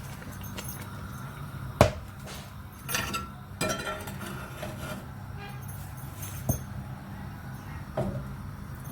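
Metal cookware knocking and clattering on the stove: a sharp knock, a couple of short rattling clinks, then two more single knocks, over a steady low hum.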